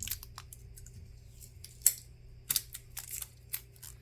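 Irregular small clicks and taps of tools and phone parts being handled during a smartphone repair, with the sharpest click a little under two seconds in and a quick cluster of clicks after it.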